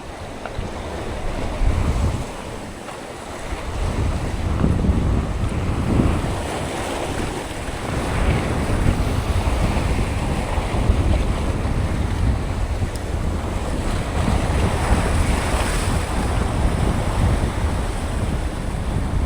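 Wind buffeting the microphone with a steady low rumble, over the wash of sea waves.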